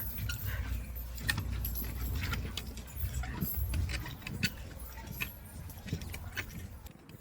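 Irregular light clicks and jingling rattles over a steady low rumble, which drops away near the end.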